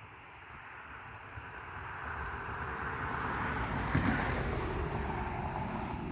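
A vehicle passing by: a rush of noise that swells to a peak about four seconds in, with a couple of short clicks at the peak, then fades.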